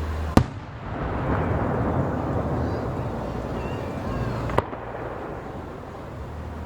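Fireworks display: a sharp shell burst about half a second in, followed by a spell of dense crackling, then a second sharp bang about four and a half seconds in.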